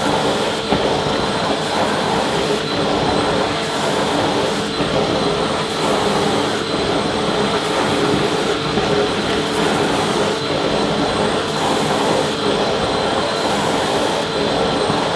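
Vacuum cleaner running steadily: a constant loud rushing of air with a faint motor whine held on an even pitch.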